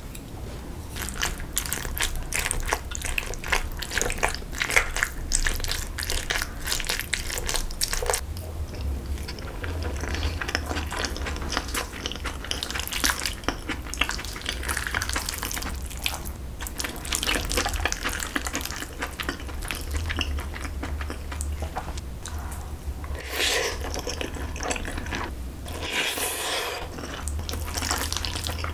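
Close-miked eating sounds: wet chewing and smacking of a mouthful of rice and fried egg, a steady stream of moist clicks and crackles.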